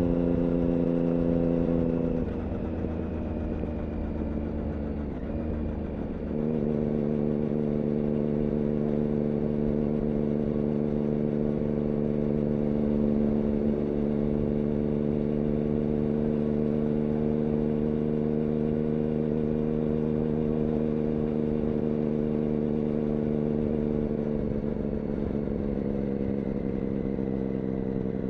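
Triumph Daytona 675's inline three-cylinder engine through an IXIL aftermarket exhaust, running at steady revs. The note drops off about two seconds in, picks back up about six seconds in, and eases a little near the end.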